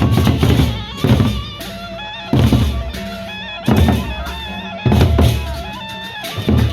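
Loud band music for a wedding procession: heavy drum hits land about every second and a bit over a busy drum-kit pattern, with a melody moving in stepped held notes above.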